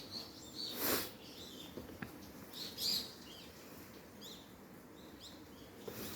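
Small birds chirping, short high notes repeating throughout, with a brief loud burst of noise about a second in.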